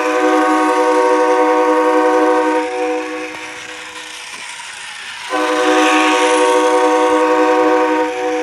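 Multi-tone train horn sounding two long steady blasts, each about two and a half seconds, separated by a pause of a little under three seconds.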